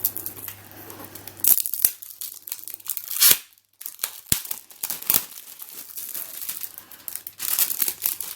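Plastic packaging crinkling and rustling as it is handled, with scattered sharp clicks and a brief silent gap about halfway.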